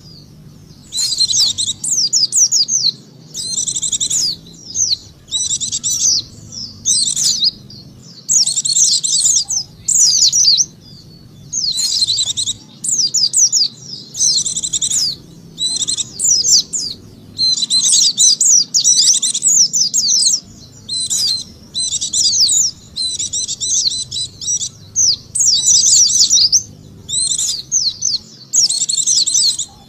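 White-eye (pleci) song used as a lure call: rapid, high twittering phrases about a second long, repeated over and over with short pauses between them.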